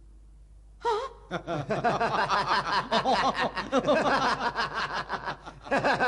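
Several cartoon voices laughing together, starting about a second in and breaking off briefly before a last burst near the end.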